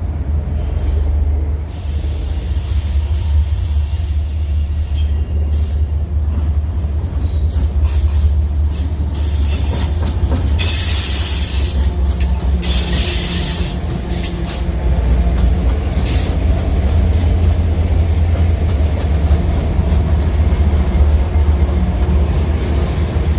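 Union Pacific intermodal freight train rolling past with a steady heavy low rumble. About ten seconds in there are two brief surges of high hiss, and a faint thin squeal runs in the second half.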